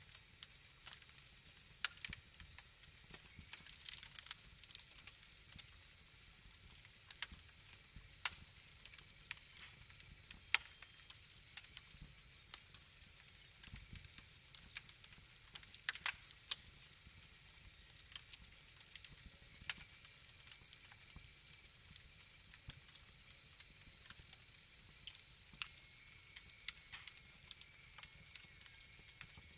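Wood fire crackling: irregular sharp pops and snaps over a soft hiss, with a faint thin whistle in the last third.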